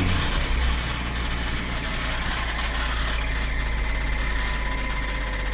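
Chrysler PT Cruiser engine idling steadily after a cold start, with a light squeak from its belt. The owner puts the squeak down to the belt.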